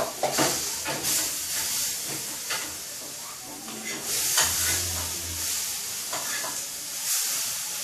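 Food sizzling in a hot frying pan, a steady hiss that swells twice, with a few light knocks of a utensil.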